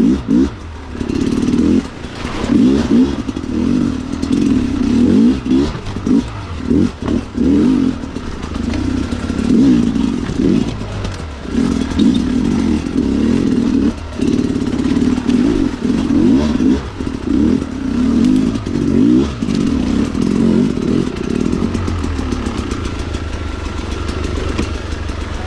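Dirt bike engine being ridden hard, the revs climbing again and again with short drops between as the throttle opens and closes. It settles to a steadier, lower note near the end.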